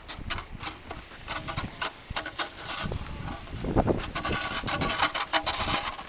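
Snow shovel scraping through snow in a run of short, rasping scrapes that come thicker and louder in the last two seconds.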